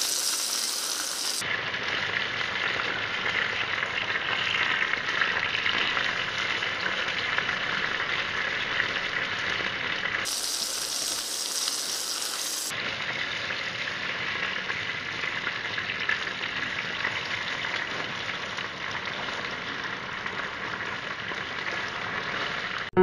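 Cheese-stuffed meatballs frying in hot oil: a steady sizzle.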